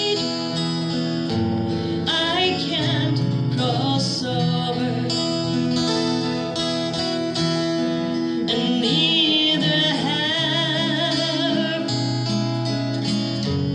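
A woman singing a slow folk melody with vibrato over acoustic guitar.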